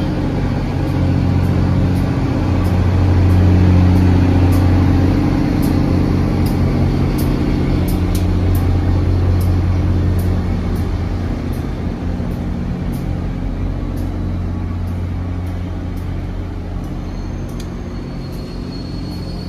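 A train's engine running with a steady low drone. It swells about three to five seconds in, then slowly fades over the second half, with faint regular ticking above it.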